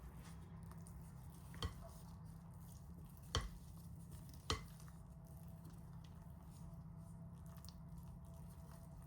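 Three light, sharp clicks of kitchen utensils or dishware, spaced a second or two apart, over a faint low hum.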